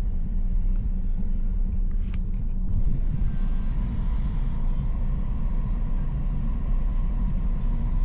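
Low, steady rumble of a car creeping along at low speed, heard from inside the cabin, with a brief click about two seconds in.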